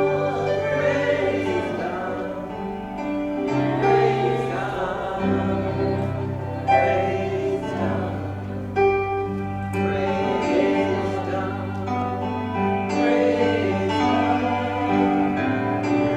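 Gospel worship music: voices singing a slow praise chorus over held chords, the chords and bass notes changing every second or two.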